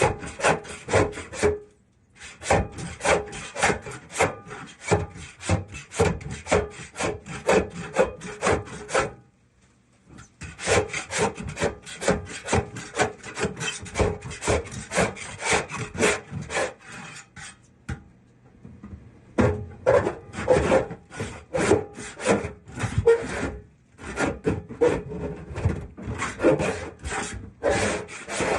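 Hand scraper scraping built-up grease off a kitchen exhaust hood, in quick repeated strokes about two a second. The strokes come in runs broken by short pauses.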